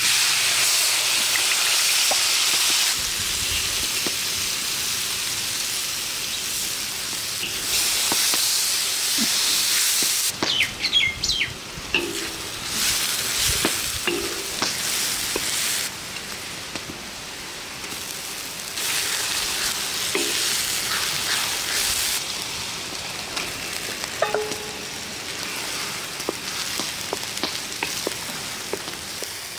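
Chopped onions hitting hot oil in a large steel wok, sizzling loudly at once, then frying on with the sizzle swelling and easing as the mix is stirred with a wooden spoon, a few scrapes and clicks of the spoon on the pan partway through.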